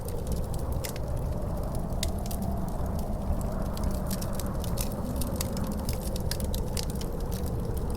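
Wood fire crackling with frequent irregular sharp pops, over a low steady roar and a howling wind whose pitch swells a little midway and sinks again.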